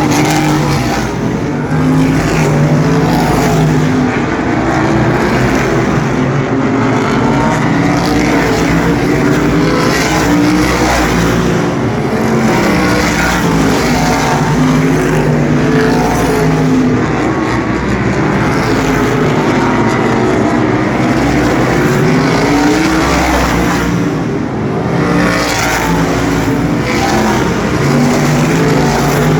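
Asphalt sprint cars racing as a pack. Several engines' notes overlap and rise and fall in pitch as the cars pass and go around the track.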